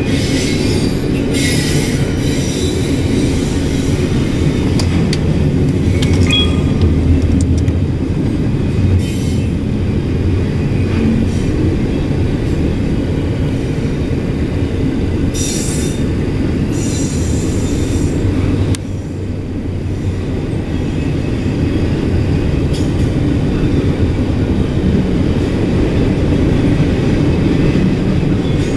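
Double-stack intermodal freight train's container well cars rolling past close by: a loud, steady rumble of steel wheels on the rails, with a few short, higher-pitched bursts of wheel noise every several seconds.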